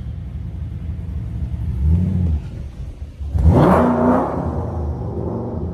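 Shelby GT500's supercharged V8 idling with a low rumble. It is blipped briefly about two seconds in, then revved harder about a second and a half later, the pitch rising and holding for a moment before it falls back to idle.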